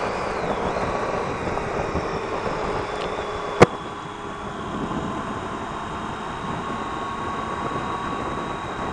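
Triumph Tiger 800 XRt's three-cylinder engine running under way, mixed with wind noise on the helmet microphone. A single sharp click about three and a half seconds in is the loudest moment, and the sound is a little quieter after it.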